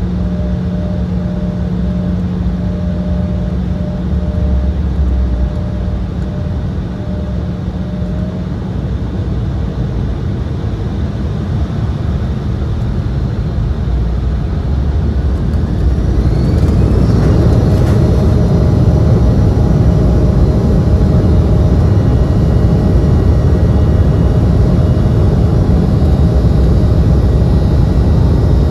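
Embraer E175's GE CF34 turbofan engines running with a steady hum, then about halfway through spooling up with a rising whine to a louder, steady roar of high thrust, as for the start of the takeoff roll.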